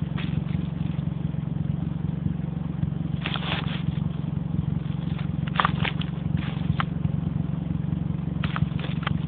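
2006 Saturn Ion 2's four-cylinder engine running steadily through a straight-piped aftermarket exhaust with no resonator, giving a low, even drone. Short clusters of crackling clicks come a few times.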